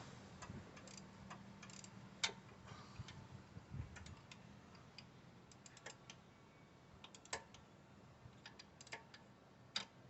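Faint, irregular clicks and light taps from hand tools working in the engine bay, some single and some in quick clusters of three or four.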